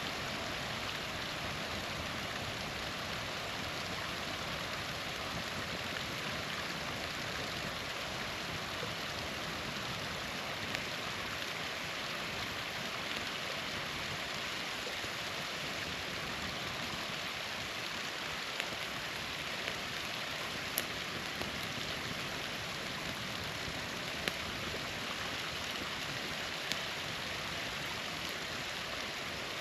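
Steady rush of a small waterfall, with a few sharp pops and crackles from a campfire, mostly in the second half.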